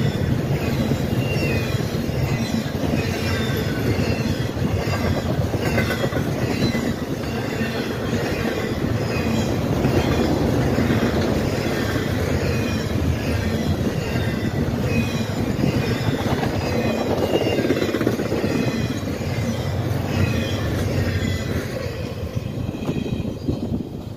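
Train rolling past, a steady rumble of rail cars with the wheels squealing in many short chirps, fading away near the end.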